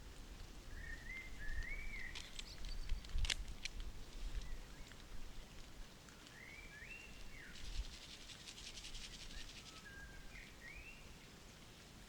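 Woodland birds calling: short rising chirp phrases three times, with a fast rattling trill lasting about a second and a half near the middle. A few sharp clicks come about two to three seconds in, the loudest sounds here, over a low rumble.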